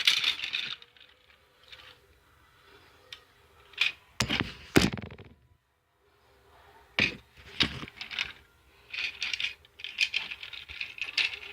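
Plastic toy trains being handled: scattered clicks, scrapes and light clatter, with a louder knock and clatter about four seconds in and a run of small clicks near the end.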